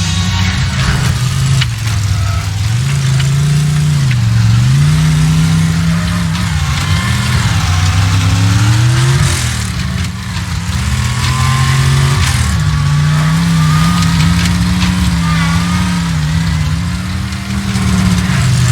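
Race car engine running hard at high revs, its pitch dipping and climbing again several times as the car lifts, shifts and accelerates.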